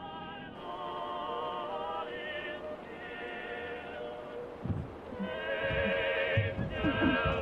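Operatic solo voice singing a slow Christmas carol with wide vibrato. From a little past halfway, a series of low thuds sounds beneath the singing.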